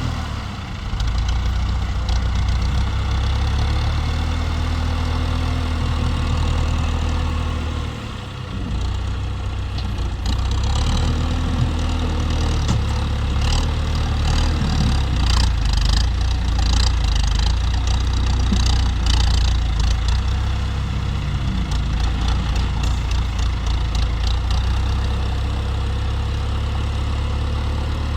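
Tractor engine running steadily, with a brief dip in level about eight seconds in and scattered clicks and knocks through the middle stretch.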